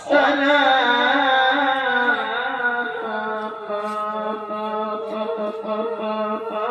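A man reciting the Quran in the melodic tilawah style, drawing out one long held note that wavers through ornamented turns for about three seconds and then steadies into a fine quivering hold.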